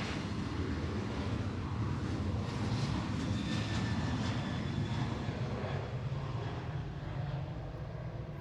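Airliner engines rumbling, swelling to a peak a few seconds in with a faint whine, then fading away.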